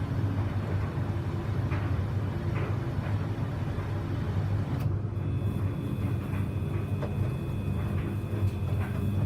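Samsung washing machine running a 95°C Baby Care boil wash: a steady low hum with faint soft knocks. About five seconds in, the high hiss drops away and a faint steady high whine comes in.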